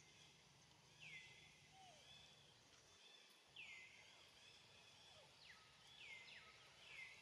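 Faint outdoor ambience with a bird repeating a short call four times, each dropping sharply in pitch and then holding briefly.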